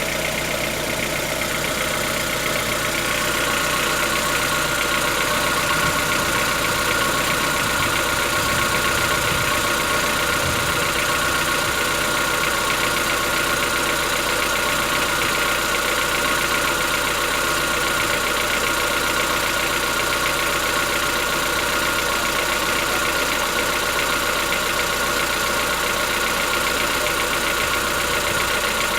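Chevrolet Onix 1.4 four-cylinder petrol engine idling steadily with a fast, diesel-like clatter from inside the engine, which the owner takes for tappet knock.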